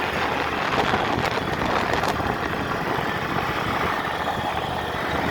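Tractor engine running steadily as the tractor drives along.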